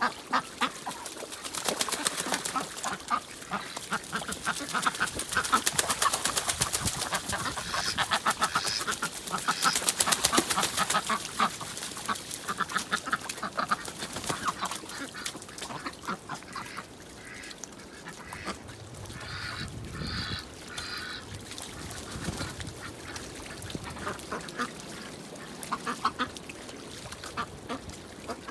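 A flock of ducks quacking and chattering, busiest in the first half, with a short run of louder calls a little past the middle.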